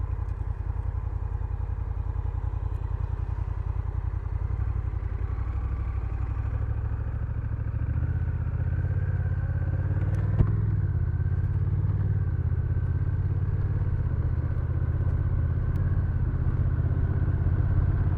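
Honda Rebel 1100's parallel-twin engine running with an even low pulse, growing louder and fuller about eight seconds in as the bike pulls away. A single sharp click comes a couple of seconds later.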